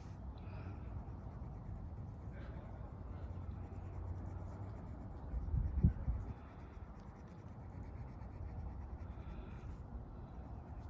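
Colouring on paper: faint scratching strokes over a steady low outdoor rumble, with one dull low thump a little past the middle.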